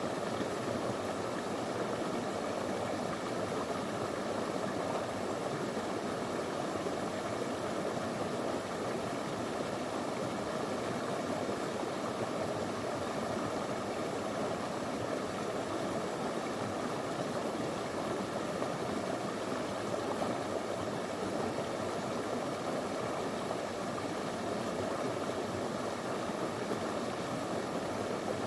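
Small river flowing over stones: a steady, even rush of water.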